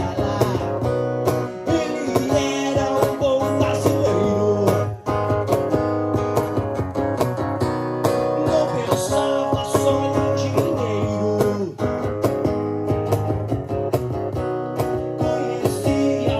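Acoustic rock music: an acoustic guitar strumming chords in a steady rhythm, with a bass line underneath.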